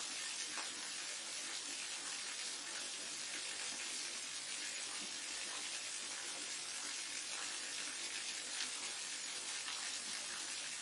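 Steady, even hiss of falling water from a waterfall.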